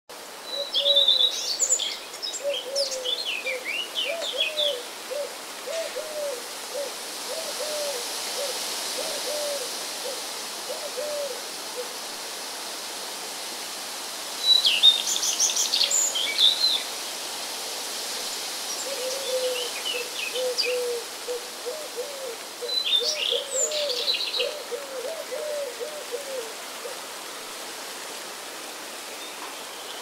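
Wild birds singing outdoors: four short bouts of quick, high chirping phrases, over two long runs of low call notes repeated about one and a half times a second.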